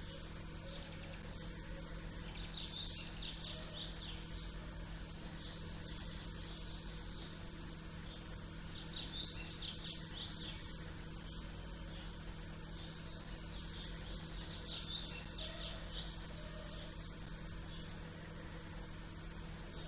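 Small birds chirping in three short bursts of quick, high twittering, over a steady low background hum.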